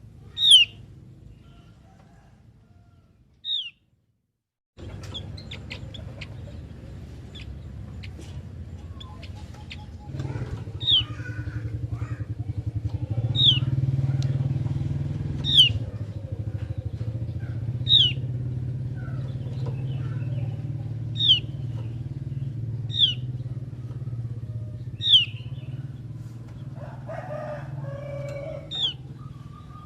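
Javan grey-throated white-eye (opior jawa) calling: short, sharp, high notes that fall in pitch, repeated about every two seconds. A steady low hum runs beneath from about ten seconds in.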